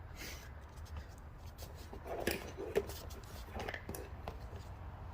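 Parts being handled by hand during reassembly: scattered light clicks, knocks and rubbing, the sharpest a little over two seconds in and again just before three seconds, over a steady low hum.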